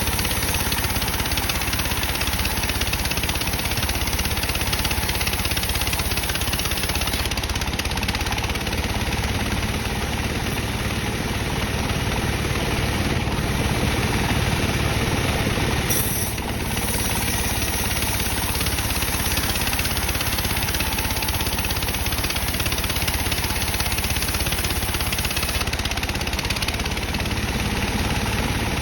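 Sawmill band saw running steadily, a constant machine drone as it saws dry teak, with a brief dip about halfway through.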